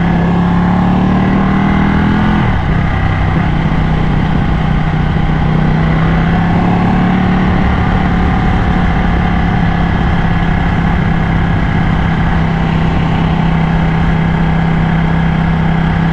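Ducati motorcycle engine under way, rising in pitch for the first couple of seconds, then changing gear and holding a steady cruise. A constant rush of wind runs underneath.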